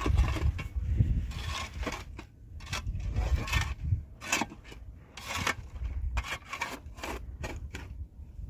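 Irregular scraping and rubbing strokes, some short and some longer, over a steady low rumble.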